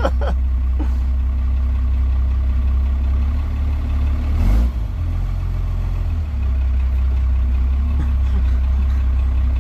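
Square-body pickup's engine running low and steady on a muddy off-road trail. About four and a half seconds in there is a short rush of noise, and the engine note drops for a second or two before settling back.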